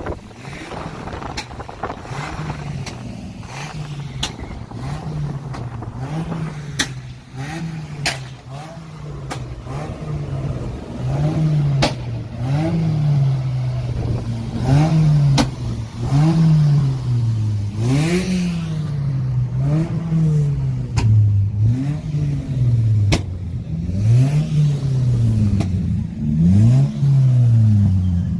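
A car engine revved again and again, each rev climbing and dropping back about every second and a half, louder from about twelve seconds in. Sharp pops from the exhaust come between the revs.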